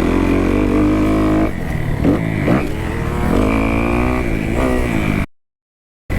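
2018 Kawasaki KX250F's four-stroke single-cylinder engine on the track, its pitch climbing and dropping several times as the rider revs and shifts. The sound cuts out suddenly to dead silence for under a second near the end, then comes back.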